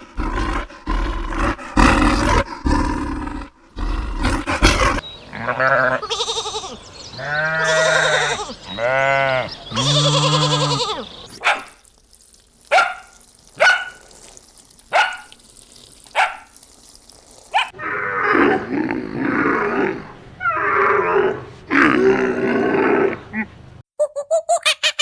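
A run of different farm animals calling. First come rough low calls, then three long pitched calls of about a second each, then short sharp single calls about a second apart, then rough, wavering calls.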